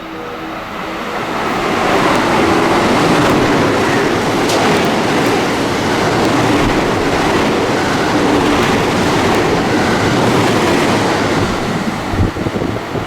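A JR West train passing through at speed: a loud rushing of wheels on rail that builds over the first two seconds, holds for about ten seconds, and falls away near the end.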